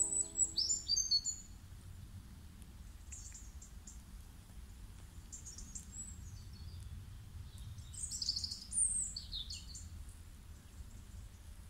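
Small birds chirping: short, high, quick calls that come in clusters, loudest in the first second and again about eight to nine seconds in, over a faint low steady rumble.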